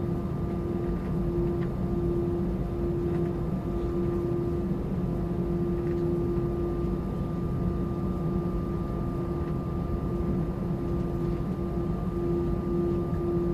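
Steady cabin noise inside an Airbus A320-200 airliner: an even low hum with a steady mid-pitched tone and a fainter, higher, steady whine, unchanging throughout.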